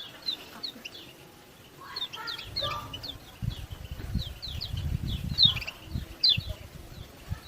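Kecial kuning (white-eye) giving rapid runs of short, high, downward-sliding 'ciak ciak' chirps, with a low rumbling noise under them through the middle.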